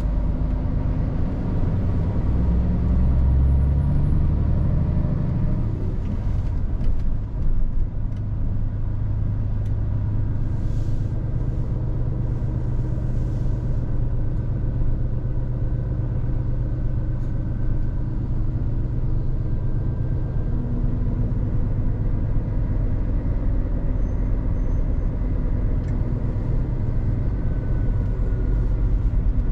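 Scania R450 truck's diesel engine running as the truck drives. The engine note climbs over the first few seconds, drops back, then holds steady.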